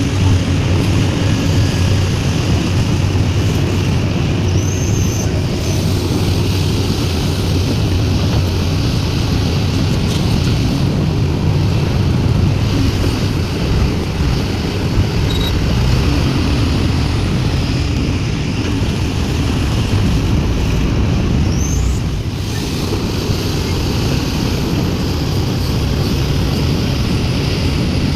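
Diesel engine of a Sumitomo SH350 hydraulic excavator running steadily at working revs while it loads soil into a dump truck.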